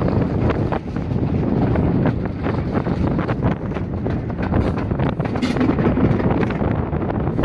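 Wind buffeting the microphone at the window of a moving railway carriage, over the steady rumble of the train running along the track.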